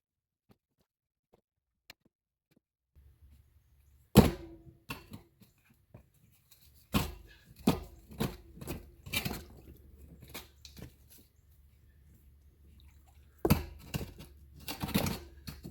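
Stones being knocked and set against one another while packing cracks: a sharp clack about four seconds in, then a run of irregular knocks and clicks, and another cluster near the end, over a low steady rumble.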